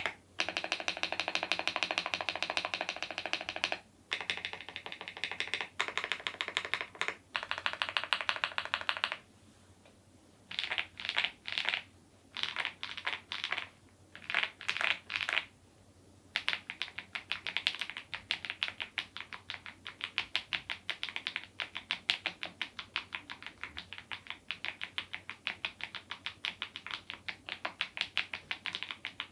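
Mechanical keyboard with HMX Cheese switches and smile-profile keycaps being typed on fast, a continuous patter of key clacks. The typing nearly stops about nine seconds in, comes back in short bursts, then runs on steadily from about sixteen seconds.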